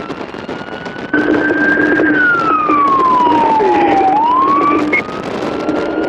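Police motorcycle siren wailing, its pitch climbing slowly, falling away about four seconds in, then climbing again, over loud road noise. A steady lower hum comes in about a second in and stops near the five-second mark.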